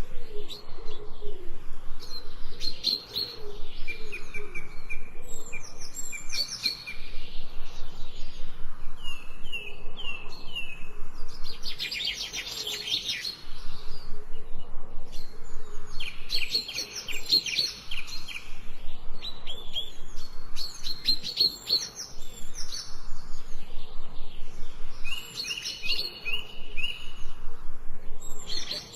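Several songbirds chirping and trilling, with quick runs of short repeated notes that come in bouts throughout.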